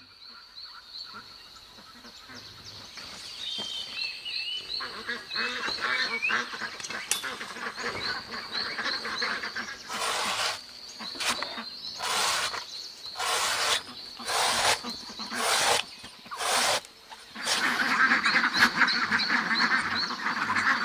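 Ducks quacking, building to a loud, dense clamour near the end, typical of ducks waiting to be fed. A steady high-pitched tone with repeated chirps runs underneath, and a series of short loud rushing noises comes in the middle.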